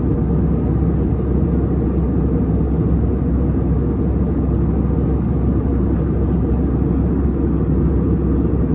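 Steady cabin roar inside an Airbus A321neo airliner descending: engine and airflow noise, even and unbroken, heavy in the low end.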